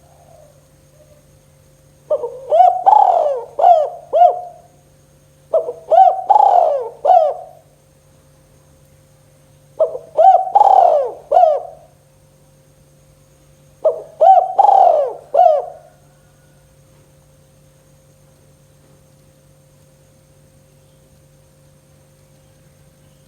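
Spotted dove (tekukur) cooing: four phrases of a few rolling coo notes each, spaced a few seconds apart. After the fourth phrase the bird falls silent and only a faint steady hum remains.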